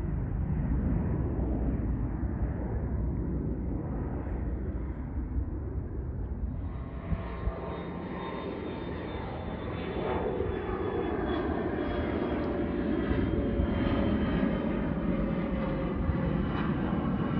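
Airplane taking off: the engines make a low, steady rumble. About six seconds in, a whine with several pitches joins it and slowly falls in pitch. The whole sound grows louder around ten seconds in.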